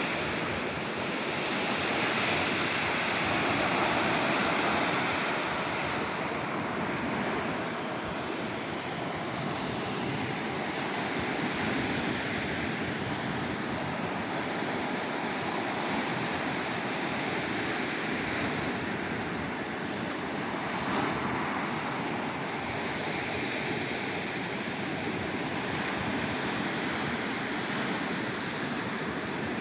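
Black Sea surf washing continuously onto the shore, swelling and easing without a break.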